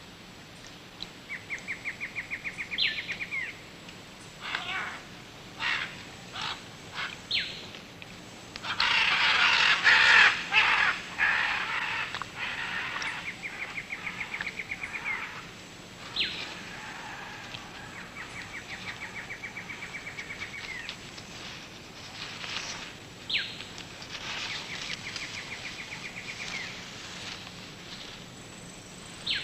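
Rainforest wildlife calls: a rapid trill that repeats four times, with short sharp bird calls between. A loud harsh cawing call comes about ten seconds in.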